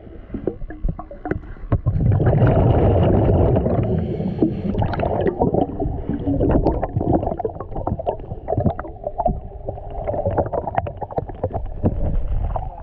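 Scuba diver's exhaled bubbles heard underwater, rushing in surges every few seconds, with many small clicks and knocks in between.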